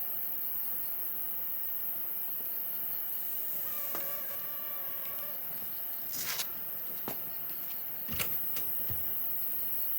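Wood campfire burning with a steady hiss, giving off a handful of sharp crackles and pops in the second half, with a faint drawn-out tone near the middle.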